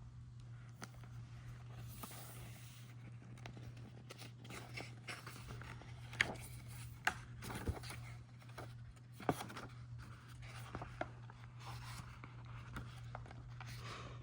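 Faint rustling and scraping handling noise with a few small sharp clicks, over a steady low electrical hum.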